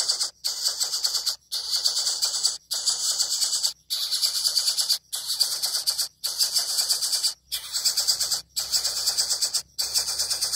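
Coucal chick begging for food with a harsh, rasping hiss, repeated in bursts of about a second with short breaks between them, roughly nine times.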